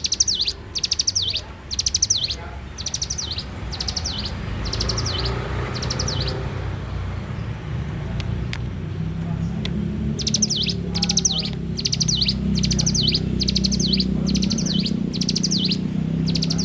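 Ciblek gunung, a prinia, singing fast runs of thin, high, down-slurred chirps. It sings for about three seconds, pauses for several seconds, and starts again about ten seconds in. A steady low rumble runs underneath.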